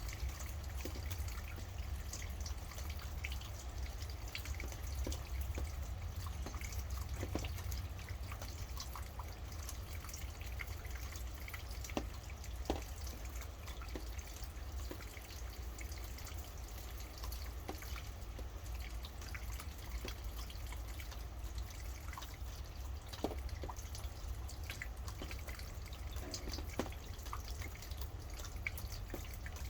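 Rain falling and dripping in many irregular separate drops, with a few louder drops standing out, over a steady low rumble.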